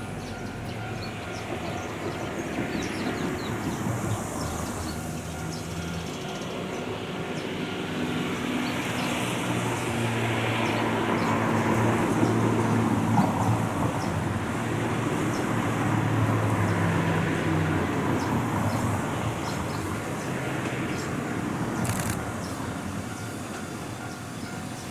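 Two-car electric train approaching along the line from a distance, its running noise swelling and easing with a low hum. A single sharp click near the end.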